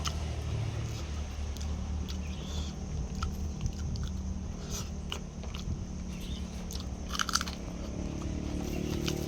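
A person biting and chewing chicken close to the microphone, with scattered crunchy clicks and the loudest crunch about seven seconds in. A steady low hum runs underneath.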